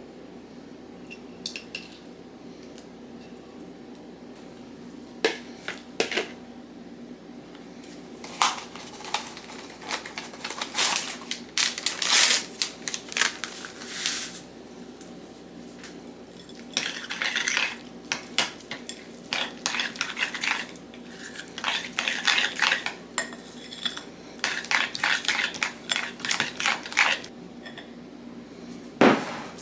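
Cooking utensils and dishes clinking and clattering irregularly during kitchen prep work, over a faint steady hum.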